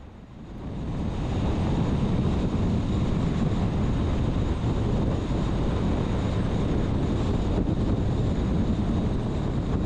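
Steady road and wind noise of a vehicle driving at highway speed, swelling over the first second or so and then holding even.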